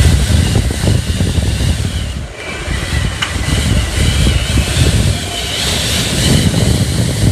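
Hurricane-force wind gusts blowing hard and buffeting the microphone with a deep, uneven rumble. The gust eases briefly about two seconds in, then builds again.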